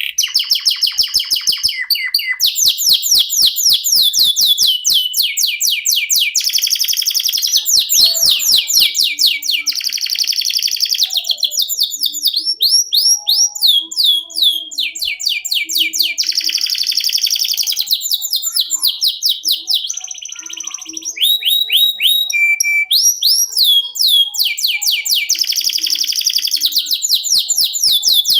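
Canary singing a long unbroken song: fast rolling trills and runs of quick repeated sweeping notes, changing phrase every second or two.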